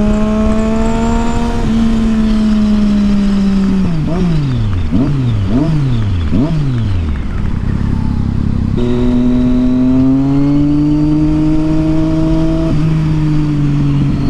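Triumph Street Triple 675's inline-three engine through a loud Yoshimura aftermarket exhaust, heard from the moving bike. It holds a steady note, then about four seconds in the revs fall and jump back up several times in quick succession. From about nine seconds in it pulls steadily again with a gently rising pitch.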